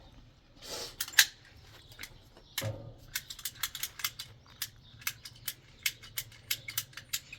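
A couple of short rustling scrapes, then a run of sharp, irregular clicks or taps, about three to four a second.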